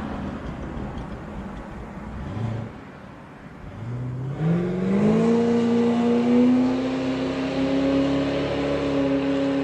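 Chevrolet LS V8 car going by under acceleration. Its engine note climbs in pitch over about a second, starting about four seconds in, then holds a steady higher note.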